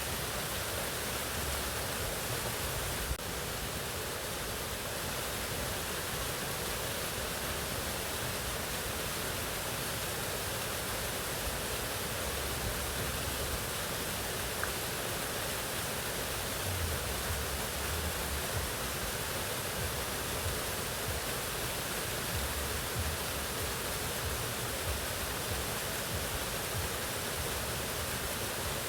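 Mountain waterfall rushing in a steady, even roar, with one brief click about three seconds in.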